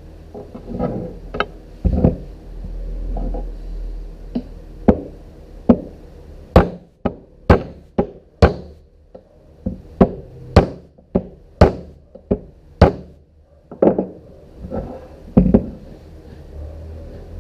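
A run of sharp knocks at irregular intervals, one every half second to a second and loudest in the middle stretch, like hammer blows in a workshop build.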